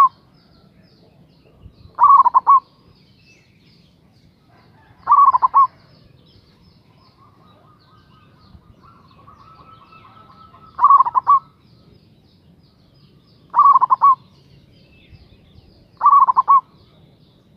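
Zebra dove (local Javanese perkutut) cooing: five short, rolling coo phrases, each a quick run of pulsed notes, spaced a few seconds apart.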